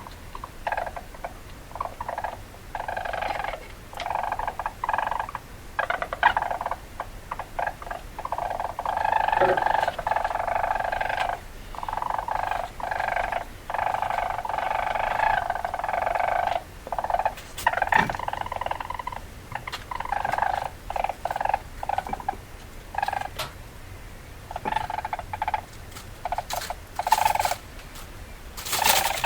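Weasel chattering: bursts of rapid, buzzy calls lasting from a fraction of a second to about two seconds, broken by short pauses, with a few sharp clicks near the end.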